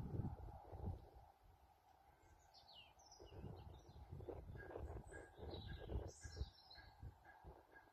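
Small birds chirping, a cluster of quick high calls in the middle, over faint low thumps and rumble of outdoor background noise.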